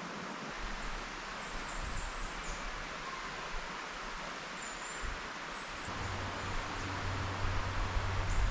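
Outdoor forest ambience: a steady rustling hiss with a few faint, short, high chirps. From about six seconds in, a low rumble of wind buffeting the microphone grows louder.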